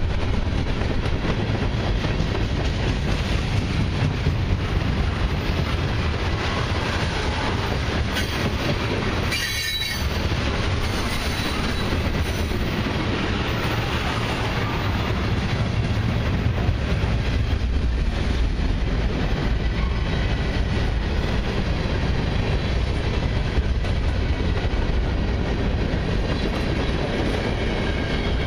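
Freight cars of a long mixed train, tank cars and gondolas, rolling steadily past at close range: the continuous rumble and rattle of steel wheels on the rails.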